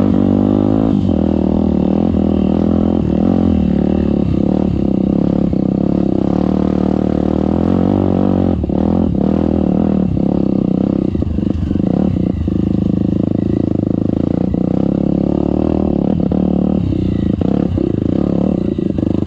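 Trail motorcycle engine running steadily. Partway through comes a run of clatter and knocks.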